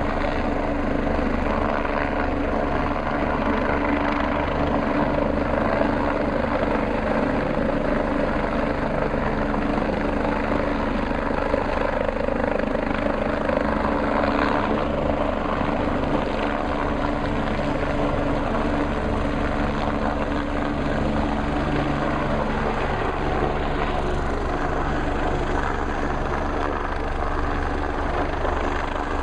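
MBB/Kawasaki BK 117 twin-engine rescue helicopter running steadily overhead, with rotor and turbine noise holding at an even level. One steady tone in it drops away a little over twenty seconds in.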